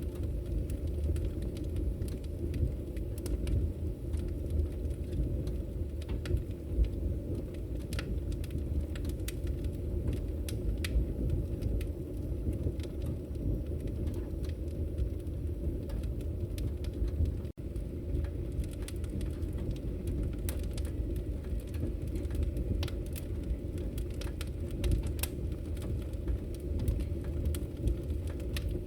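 Wood fire burning in a fireplace: a steady low roar with irregular sharp crackles and pops from the logs. The sound drops out for a split second about 17 seconds in.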